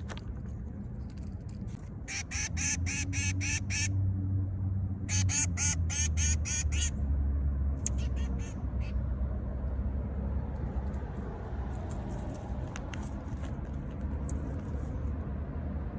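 An animal gives two rapid series of harsh, repeated calls, about four a second, each series lasting about two seconds. A few fainter calls follow, over a steady low rumble.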